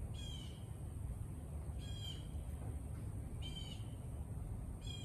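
A bird outdoors gives four short, harsh calls, spaced about a second and a half apart. A steady low rumble runs underneath.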